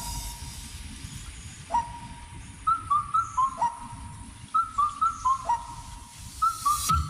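A whistled tune in a steady rhythm. Single upward-swooping notes alternate with quick runs of three higher notes, over a low background rumble.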